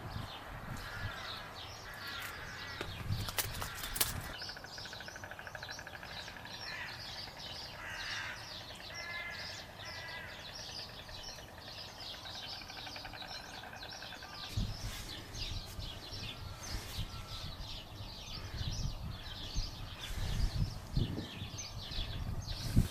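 Many birds chirping and calling without pause, with a few longer pitched calls a few seconds in. Low wind rumbles come in over the second half.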